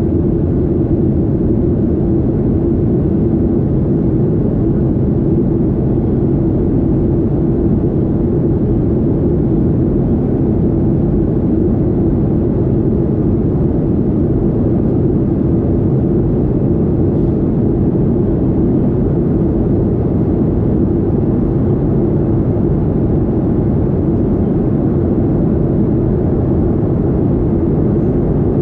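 Boeing 737-800 airliner's steady drone of engine and air noise with a constant low hum, unchanging in level.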